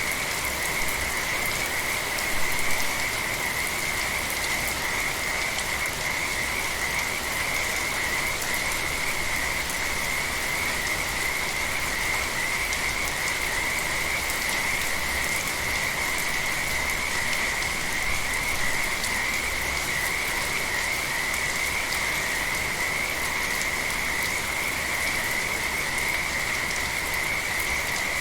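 A dense frog chorus calling without pause at one steady pitch, over the even hiss of steady rain.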